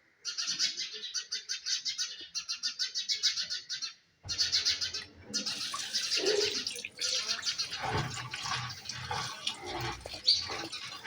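Birds chirping in fast runs of rapid repeated notes, broken by short pauses. From about four seconds in, knocks and noisy handling sounds mix in under the chirping.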